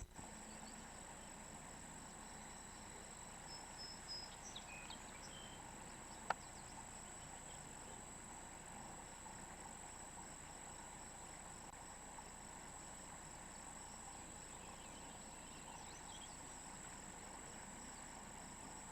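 Faint insect chorus: a steady high drone with crickets chirping in a quick, even pulse. There is one sharp click about six seconds in, and a few small chirps a little before it.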